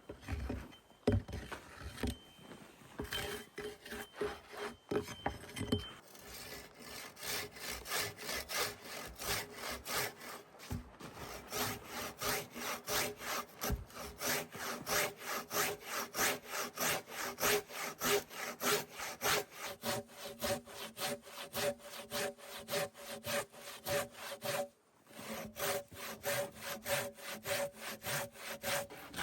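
Handsaw cutting wood with fast, regular back-and-forth strokes. The strokes begin about six seconds in, after a few knocks of handling, and stop briefly near the end before starting again.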